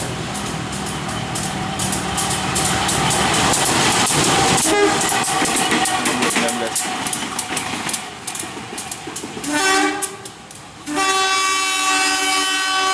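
A train running past close by, its wheels clattering over the rail joints, followed by two horn blasts near the end: a short one, then a longer one of about two seconds.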